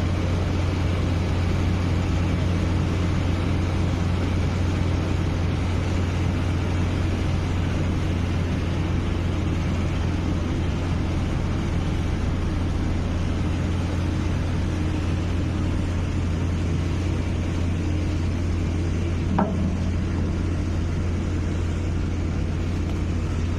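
Large engine running at a steady speed, a deep even drone that does not rise or fall. One short knock is heard about 19 seconds in.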